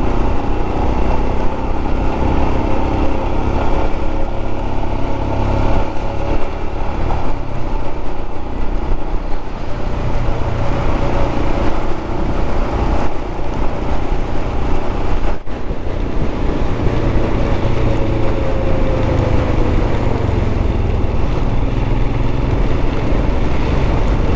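Royal Enfield 411 cc single-cylinder motorcycle engine running steadily while riding, with a short dip in sound about two-thirds of the way through and the engine note easing down a little near the end.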